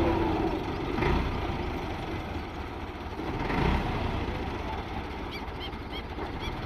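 Tractor engine running with a steady low rumble, swelling twice. A few faint short high chirps come near the end.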